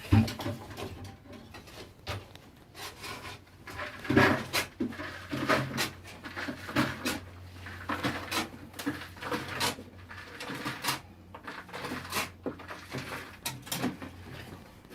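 Irregular knocks, clanks and scrapes as a bucket is lowered down a dug shaft and spoil is worked at the bottom, with a faint steady low hum beneath.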